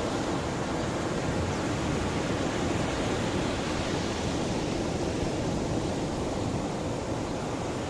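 Mediterranean sea waves washing against the shore, a steady, even rush of surf with no distinct breaks.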